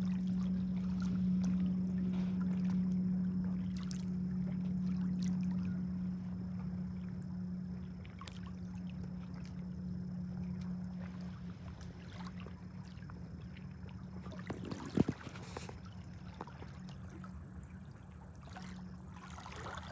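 Motorboat engine droning steadily at a low pitch, slowly fading away. A single sharp knock sounds about fifteen seconds in.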